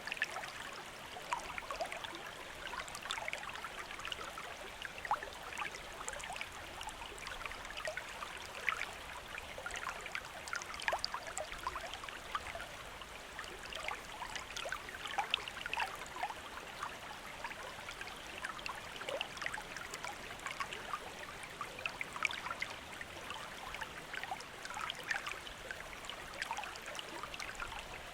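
Shallow river or stream running steadily, a continuous babble of water with many small splashes and gurgles.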